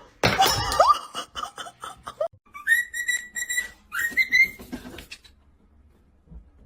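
A flurry of knocks and short squeaky glides, then two high whistled notes, each sliding up and held steady for about a second and half a second.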